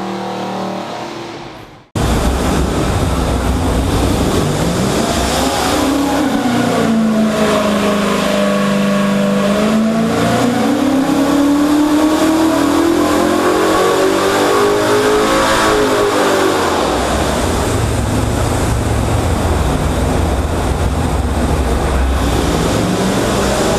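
505 cubic-inch Pontiac V8 with multi-port fuel injection running loud, cutting in suddenly about two seconds in. Its engine speed sweeps down and up over several seconds at a time. Before it, music fades out.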